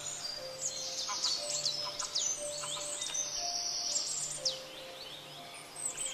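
Birds chirping busily, many quick high calls that slide downward, over faint background music with long held low notes.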